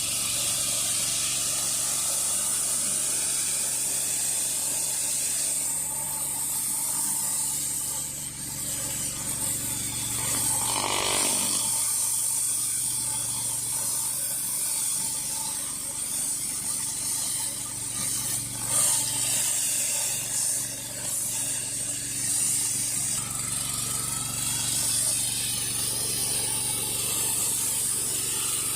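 Whisper Wash 16-inch surface cleaner running over concrete: a steady hiss of high-pressure water spraying from its spinning bar under the deck, over a constant low hum.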